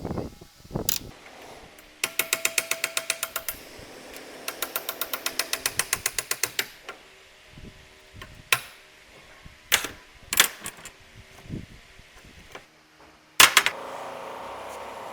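Hand-tool work on metal: two runs of rapid, even clicking, a few separate sharp knocks, then a loud clank about 13 seconds in, followed by a steady hum.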